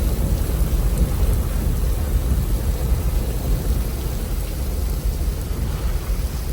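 Rainstorm: steady rain with a continuous low rumble underneath.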